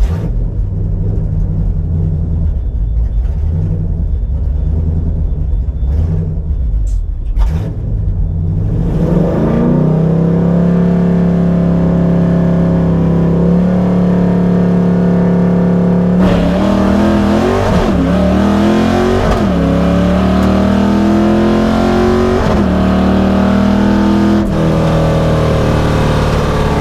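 Ford 5.0 V8 of a Fox-body Mustang drag car, heard from inside the cabin. It rumbles at low revs at first, then about eight seconds in it climbs into a hard, steady high-revving pull, with several breaks and jumps in pitch as it shifts through the gears on a drag strip pass.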